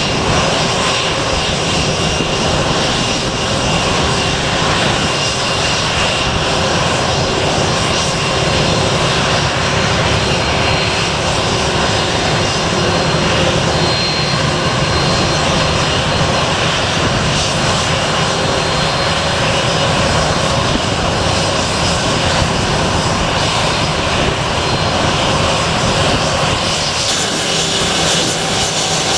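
Airliner's engines running at high power for departure: a steady, loud noise with several faint steady whining tones through it.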